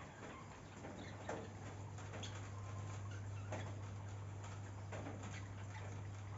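Outdoor nature ambience: short, scattered ticking sounds, roughly one a second, over a steady low hum.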